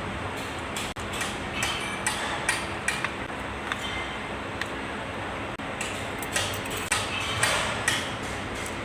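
Metal tools and engine parts clinking and tapping, a dozen or so light, sharp knocks at irregular intervals over a steady background hum.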